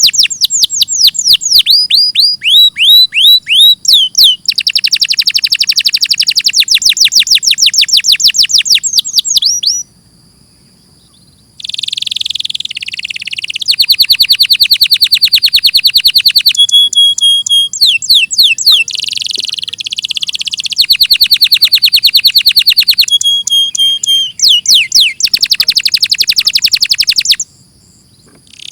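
Domestic canary singing: long phrases of fast trills and rolls of rapidly repeated notes, opening with quick falling sweeps, with a short pause about ten seconds in.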